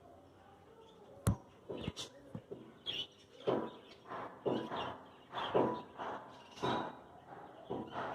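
Birds calling in short repeated calls, about one a second from halfway through, after a single sharp click a little over a second in.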